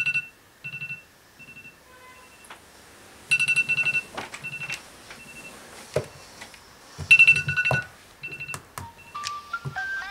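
Electronic ringtone or alarm beeps sounding in repeated short bursts of rapid pulses, with a low buzz under each burst, and a few sharp knocks in between. Near the end a rising series of stepped beeps.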